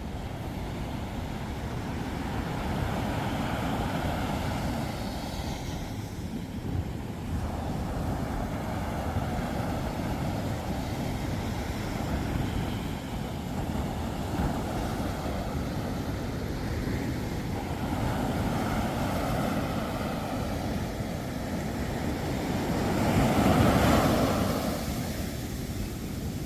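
Sea waves breaking and washing onto the shore, a rushing noise that swells and eases every few seconds, with the loudest surge near the end.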